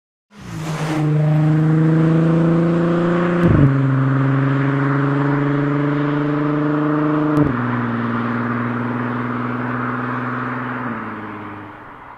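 Volkswagen Passat R36's 3.6-litre VR6 engine and exhaust accelerating through the DSG gearbox: the engine note climbs steadily in each gear and drops abruptly at three quick upshifts a few seconds apart. The sound fades near the end as the car pulls away.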